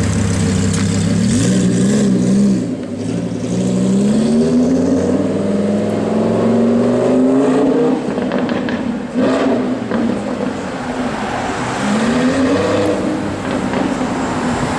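Lamborghini Huracán's 5.2-litre V10 through an aftermarket Fi exhaust, loud throughout. It starts at a steady low hum, then pulls away with the revs rising for about five seconds and dropping at a gear change. After a short blip it rises again near the end.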